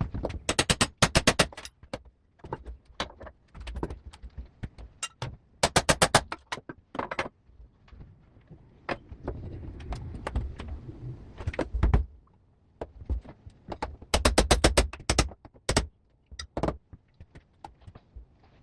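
Three short bursts of rapid clicking, about a dozen clicks a second, among scattered knocks and clatter and a few seconds of low rumbling: hand work with tools and parts during a window installation.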